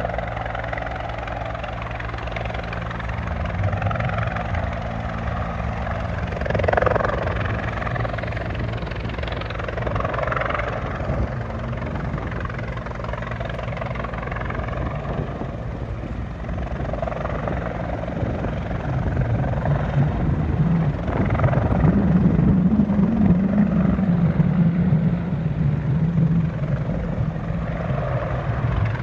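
Disaster-prevention rescue helicopter's rotor and engine running steadily with a low, even rotor beat. It grows louder about two-thirds of the way through.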